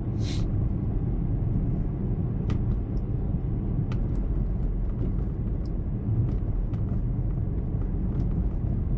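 Steady low rumble of a car's engine and cabin heard from inside the car, with a few faint sharp pops.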